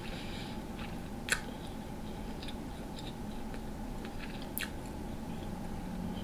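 Close-miked chewing and biting of someone eating, with faint wet crackles and two sharp clicks, one about a second in and one near five seconds.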